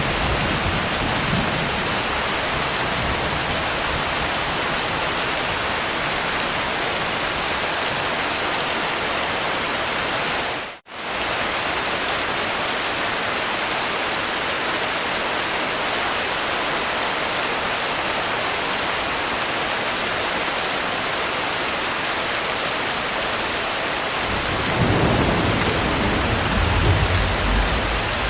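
Steady heavy rain, with low rolling thunder near the start and again in the last few seconds. The sound cuts out for an instant about eleven seconds in.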